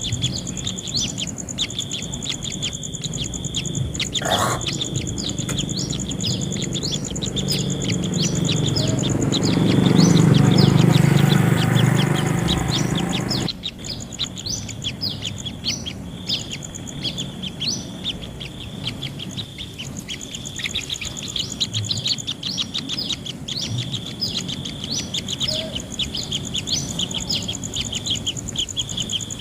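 Kingfisher nestlings calling in the nest, a fast, unbroken run of short chirps over a steady high whine. About eight seconds in, a louder rushing noise builds for several seconds and then cuts off suddenly.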